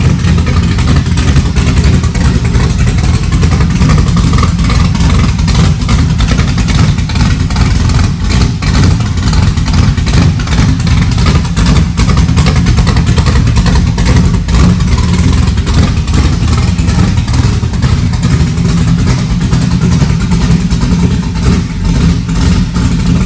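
Fox-body drag car's 408 cubic-inch V8 running loudly and steadily, its sound dense and low-pitched, with no clear rise or fall in revs.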